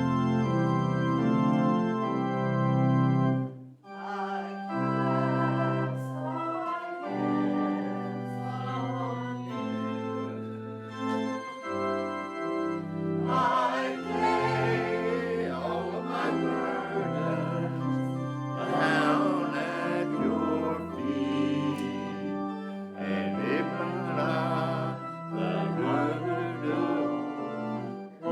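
Church organ playing slow held chords with a moving bass line, starting abruptly. Singing voices join in about halfway through.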